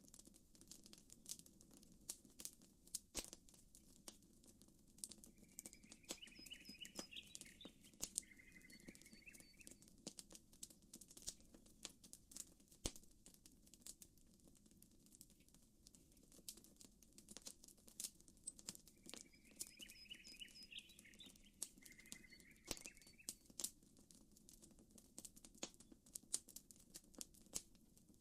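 Campfire wood crackling with frequent sharp pops and snaps over a steady low wash of gentle water ripples. A bird calls twice, a short chirping phrase about five seconds in and again about nineteen seconds in.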